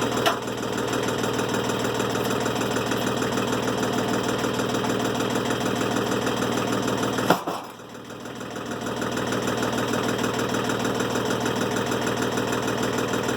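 Timberking 1400 sawmill's engine idling steadily between cuts. About seven seconds in, a sharp click comes with a brief drop in the engine sound, which builds back over a couple of seconds.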